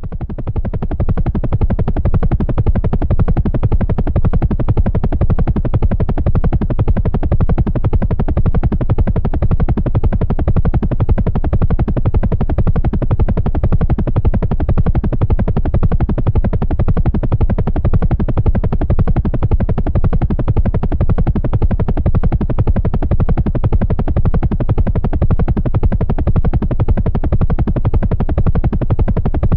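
Helicopter in flight: the rapid, even beating of the rotor blades over the engine's steady noise, fading up just at the start and holding level throughout.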